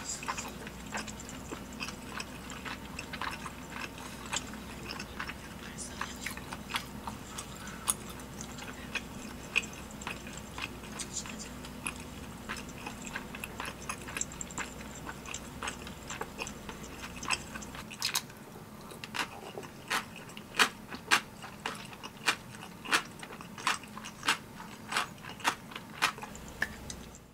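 A person chewing spicy tteokbokki rice cakes close to the microphone, with many short wet clicks from the mouth. The clicks come sharper and more spaced out in the last third, when a low background hum stops.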